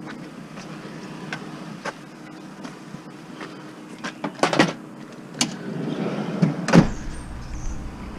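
Knocks and clunks from handling a heavy piece of scrap metal, the loudest knock about seven seconds in, after which a low rumble sets in.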